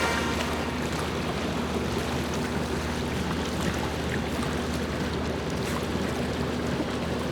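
A catamaran under way: steady rushing of water along the hulls, with a low steady hum underneath.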